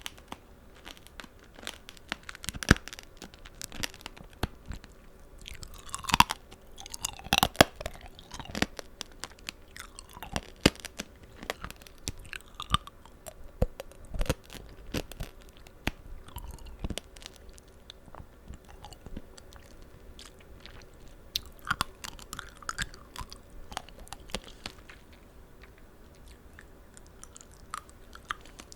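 Close-miked chewing of tanghulu, sugar-glazed fruit: the hard candy shell cracks and crunches in irregular sharp crackles, with softer chewing between.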